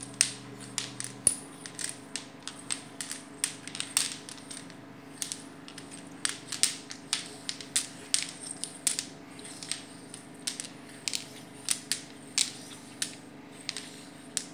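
Domino tiles clacking against one another and the playing surface as they are shuffled and shared out between two players: many sharp, irregular clicks, a few a second.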